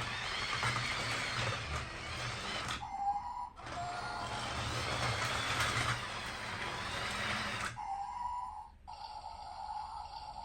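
LEGO toy train running, making a noisy mechanical sound in two stretches, about three seconds and then about four seconds long. A short break comes about three seconds in, and the sound cuts off near the end, leaving a steady high hum.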